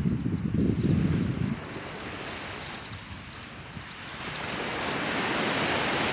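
Sea waves washing onto the shore, with wind buffeting the microphone for the first second and a half. A wave's wash swells up toward the end. Faint short high chirps come and go during the first few seconds.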